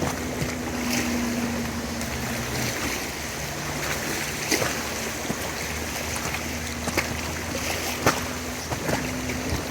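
Rushing river water around a raft, with a few sharp paddle splashes.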